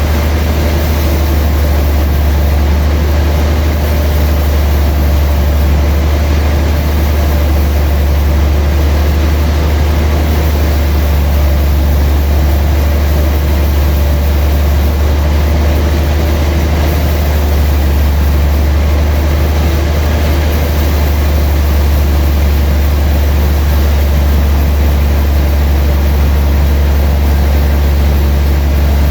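Sawmill machinery running steadily, a loud, heavy low drone that goes on without a break.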